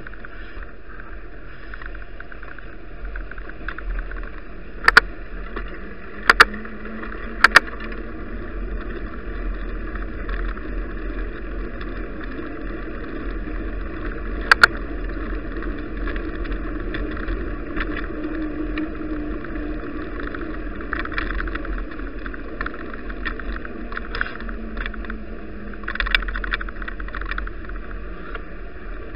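Bicycle riding over snowy roads: steady tyre, road and wind noise, broken by four sharp, very loud knocks, three about a second apart in the first third and one about halfway through. A low hum swells and fades in the middle.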